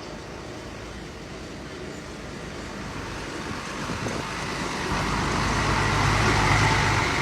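Heavy diesel engine of construction machinery running and growing steadily louder. About five seconds in it comes under heavy load, with a deep engine hum and a rougher noise over it.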